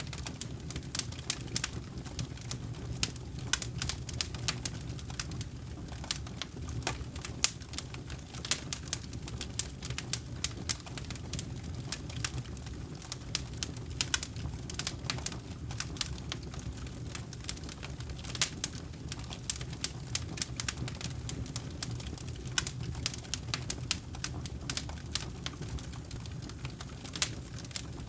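Campfire wood burning and crackling, with irregular sharp pops and snaps several times a second over a steady low rumble of the flames.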